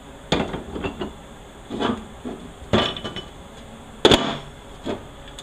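Steel parts of a 4L80E automatic transmission, a planetary gearset and drum, knocking and clinking against each other and the bench as they are handled. There are about five separate clanks; the loudest, about four seconds in, rings briefly.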